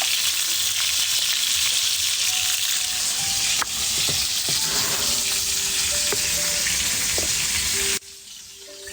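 Steady sizzling hiss of cooking over a wood fire, which drops away abruptly about a second before the end.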